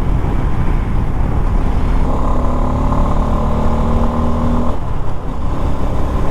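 Wind and road noise rushing past a motorcycle rider's camera at highway speed. From about two seconds in, a steady engine drone joins it and cuts off suddenly near five seconds.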